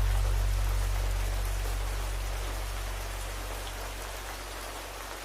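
Steady rain, an even hiss of drops, with a low sustained hum underneath; both fade out gradually.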